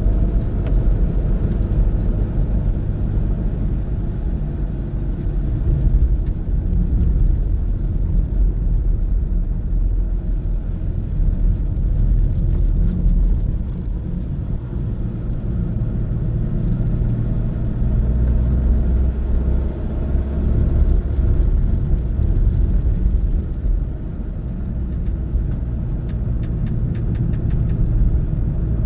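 Car driving along a road: a steady low rumble of engine and tyre noise that swells and eases a little now and then.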